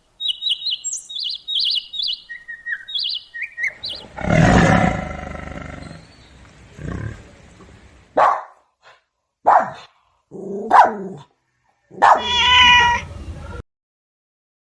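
A run of different animal calls: quick high chirps for about four seconds, then one loud, deep call, then several short calls, the last with a clear pitch.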